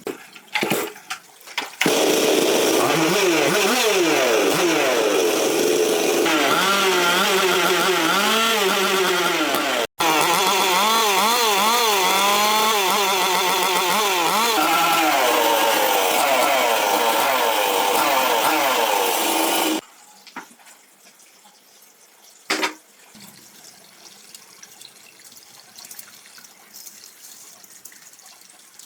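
Small two-stroke engine, as on a chainsaw, running and being revved up and down again and again, its pitch wavering. It stops suddenly about 20 seconds in. After that there is only faint noise and one sharp knock.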